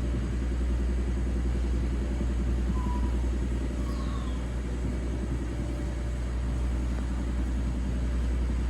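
Steady low background rumble with an even hiss, and two faint short high chirps about three and four seconds in.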